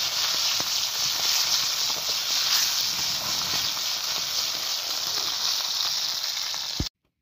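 Steak and mushrooms sizzling over a campfire: a steady frying hiss with many small spitting pops, cutting off abruptly near the end.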